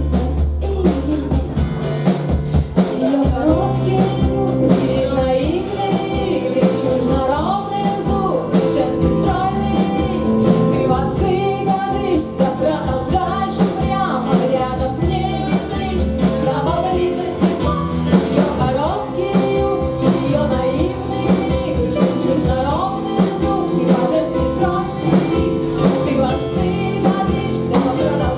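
Live rock band playing with drums, bass, guitar and a singing voice.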